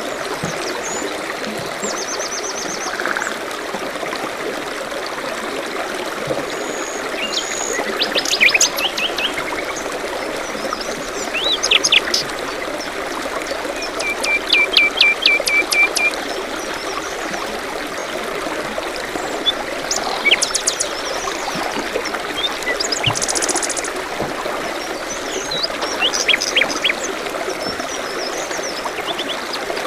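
Small songbirds chirping and singing over a steady trickling stream. Their phrases are short runs of quick repeated notes scattered through, the longest a run of about eight notes near the middle.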